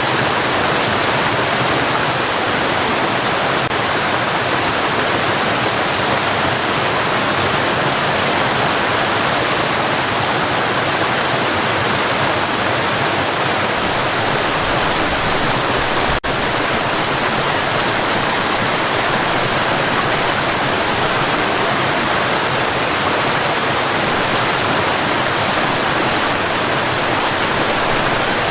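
Steady white noise, an even hiss with no changes, broken only by a momentary dip a little past halfway through.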